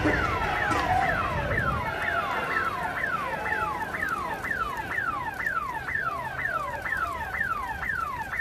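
Electronic alarm sounding in quick, repeated falling sweeps, about two to three a second, over a low rumble. It resembles a car alarm.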